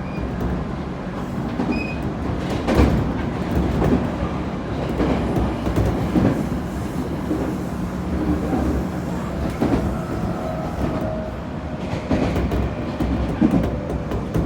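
Onboard running sound of a JR Kyushu 811 series electric train: a steady low hum from its self-ventilated traction motors, with the wheels clacking over rail joints every second or so.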